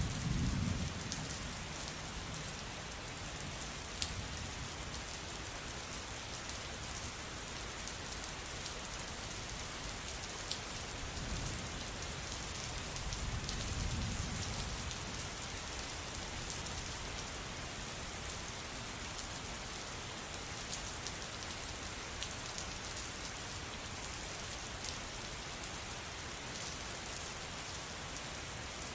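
Steady rain falling on a surface, with individual drops ticking through the hiss. Two soft low rumbles swell up, one right at the start and one around fourteen seconds in.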